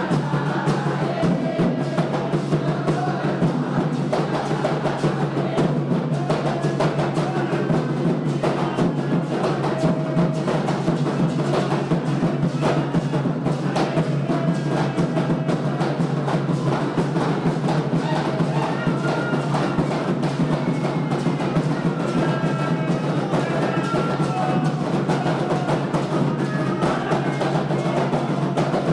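Candomblé drumming on atabaque hand drums, keeping up a dense, unbroken rhythm for a Xangô chant, with voices singing over it.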